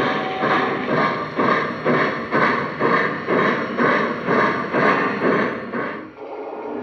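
Steam exhaust chuffs from a Lionel O-scale F-19 4-6-2 Pacific model's electronic sound system, a steady beat of about two chuffs a second that cuts off suddenly about six seconds in.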